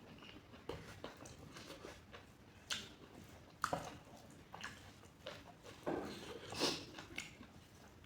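Close-up eating sounds: mouth chewing a soft, wet mouthful of food, with scattered lip smacks and squelches.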